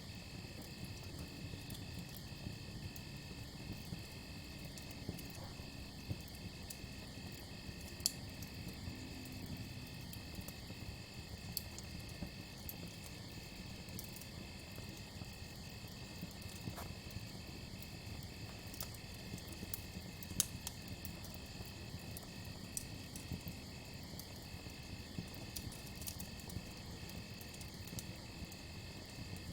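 Crickets chirping in a steady, evenly pulsing trill over a crackling campfire, with scattered sharp pops from the fire.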